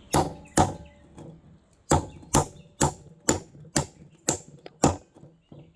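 A railroad spike striking a large chunk of milky quartz: about nine sharp blows at roughly two a second, with a pause about a second in, then a few lighter taps near the end.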